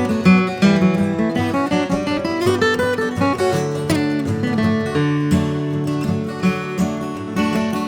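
Acoustic guitar music with no singing: an instrumental break of quickly picked melody notes over strummed chords.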